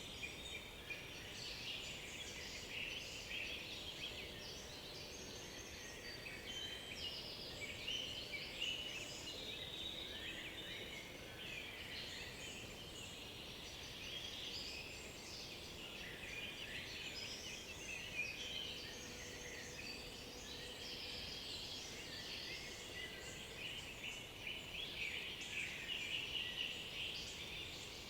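Several songbirds singing at once in a dense, overlapping chorus of high chirps, whistles and trills.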